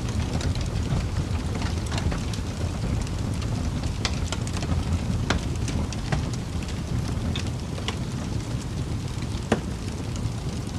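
Wood fire burning in a fireplace: a steady low rumble of flames with scattered crackles and small pops, and one louder pop near the end.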